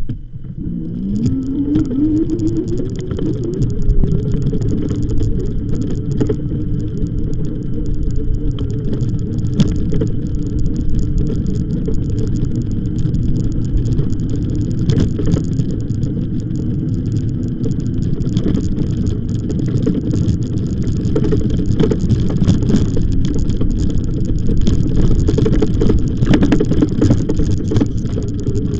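Electric bike being ridden: a motor whine rises in pitch over the first few seconds as the bike picks up speed, then runs steadily, with frequent rattles and clicks from the bike over the track.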